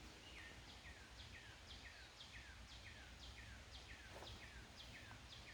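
Faint bird calling repeatedly outdoors: a steady series of short chirps, each falling in pitch, about two a second, over a quiet background of outdoor noise.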